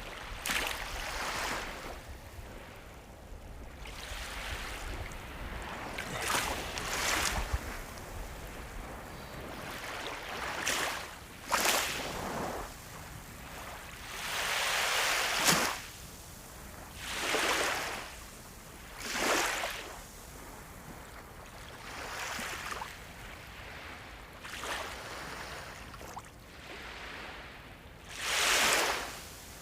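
Sea waves breaking and washing over the shore, a surge of surf every two or three seconds, some short splashes and some longer washes.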